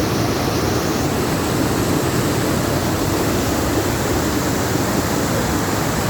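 Fast-flowing water rushing steadily, with no break or change.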